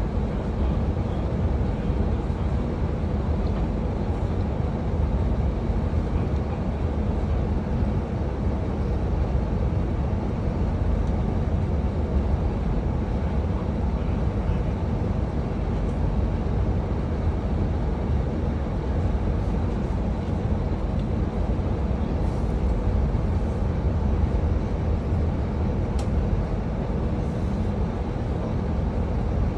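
Passenger train running along the track, heard from on board: a steady, loud low rumble of wheels and carriage.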